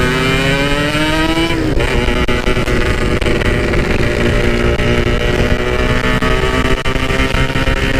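Yamaha RX-King two-stroke single-cylinder motorcycle engine pulling under way: its revs rise, drop sharply about a second and a half in at an upshift, then climb slowly again in the next gear.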